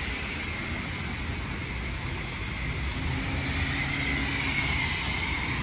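Straight-piped Jeep Grand Cherokee's Hemi V8 running steadily while driving, its exhaust note mixed with road and wind noise, getting a little louder about halfway through.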